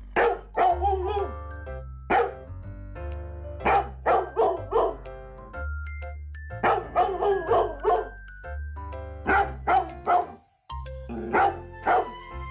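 A dog barking repeatedly in quick runs of two to four barks, over background music that cuts out for a moment about ten seconds in.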